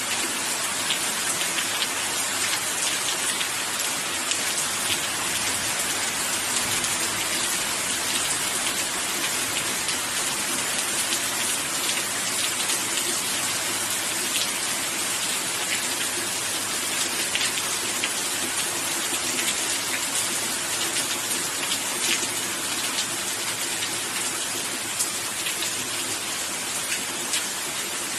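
Steady rain falling on a surface, a continuous hiss with many small drop ticks.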